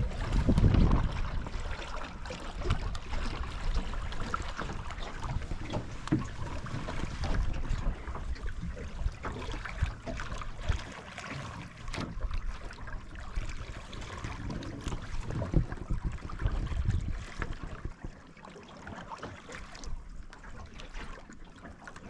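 Water washing along the hull of a wooden Mirror dinghy under sail, with gusts of wind buffeting the microphone as a low rumble; it eases and gets quieter near the end.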